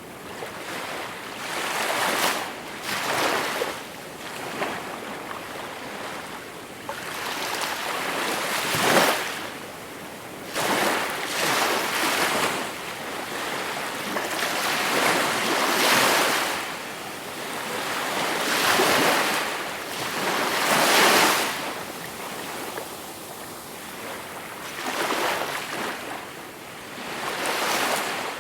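Gentle sea waves breaking and washing up the shore, one surge after another a few seconds apart, some louder than others, with the hiss of the water ebbing between them.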